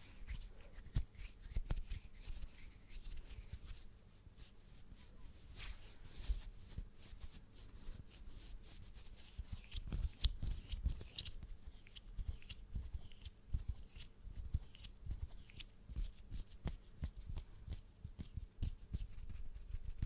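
Close-miked ASMR hand sounds: skin rubbing and rustling near the microphone, with many small irregular clicks and crackles.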